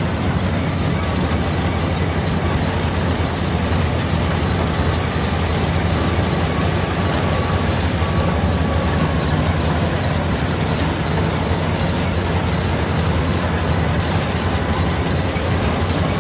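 LOVOL AF88 combine harvester's diesel engine running steadily at working speed, a deep even hum with machinery noise over it.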